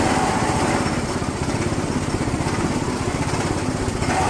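A small petrol engine running steadily with a fast, even firing beat. Its higher whine eases off early on and comes back near the end.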